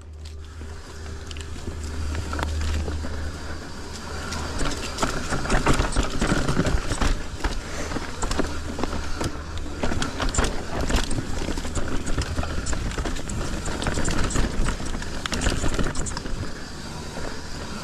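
Mountain bike rolling down a rough dirt trail: tyres crunching over dirt and rocks and the bike's chain and frame rattling in quick irregular clicks, over a steady low wind rumble on the microphone. The rattling gets busier about four seconds in.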